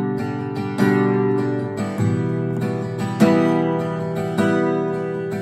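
Acoustic guitar strumming chords between sung lines, each chord struck and left to ring for about a second.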